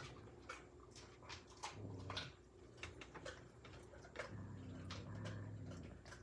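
A dog chewing raw chicken leg bones, with many sharp crunching crackles. A low growl comes in twice, briefly at about 2 seconds and again longer from about 4 seconds.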